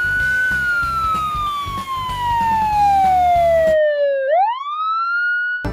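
A siren wailing: one slow fall in pitch over about four seconds, then a quick rise back up near the end. Background music plays under it and drops out a little before the rise.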